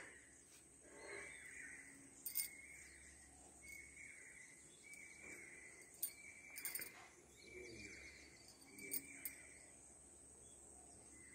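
A bird calling faintly outdoors, a short note repeated about once a second, over a steady high hiss, with a few faint clicks.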